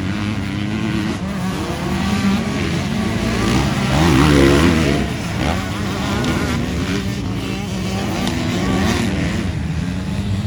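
Motocross bike engines racing, revving up and down, with the loudest pass about four seconds in.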